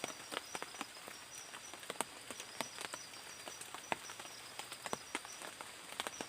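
Insects of the night forest trill in a steady, even pulse, with irregular sharp ticks and pops scattered over it.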